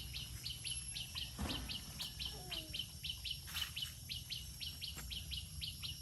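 A bird calling with a steady run of short, high chirps, about four a second.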